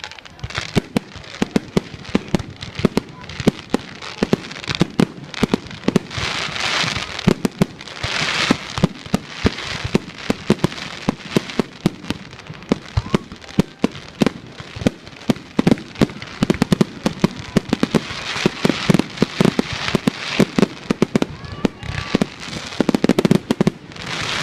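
Fireworks going off in a continuous barrage: many sharp bangs at irregular, often rapid intervals, with several spells of dense hissing crackle about a second long.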